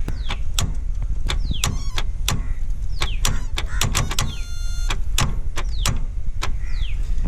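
Starter on a seized Mahindra 475 DI tractor engine clicking repeatedly, with a short hum about four seconds in, and the engine not turning over: the engine is jammed. Birds chirp over it, each call a quick falling whistle.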